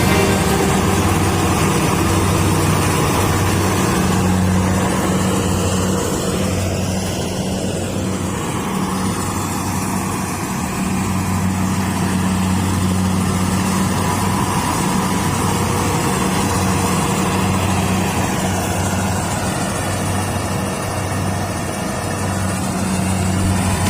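Kubota combine harvester's diesel engine running steadily as the machine works, a level hum with a broad mechanical noise over it.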